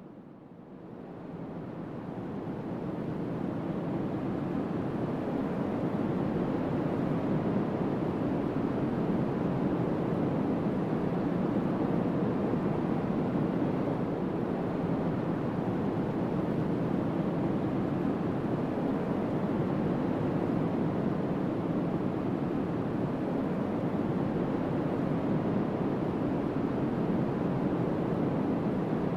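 Strong wind blowing across the microphone, a steady rushing rumble that fades in over the first few seconds and then holds.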